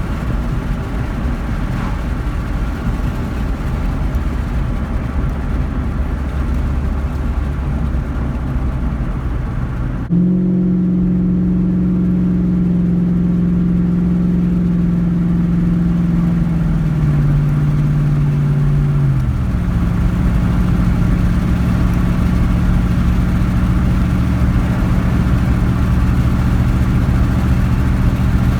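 2007 Ford Mustang GT's V8 engine running while driving, with road and tyre noise. About ten seconds in the sound changes abruptly to a stronger steady engine tone, which drops in pitch around seventeen seconds and then settles back into a steady engine tone with road noise.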